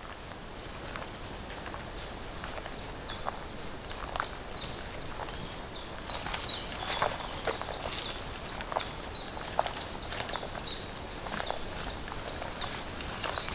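A small bird calls one short, falling, high note over and over, about two to three a second, starting about two seconds in. Irregular sharp ticks and snaps sound alongside it over a steady forest background.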